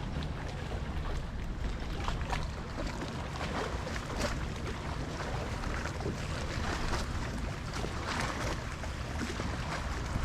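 Water lapping and splashing against a small kayak's hull in choppy water, with wind rumbling on the microphone.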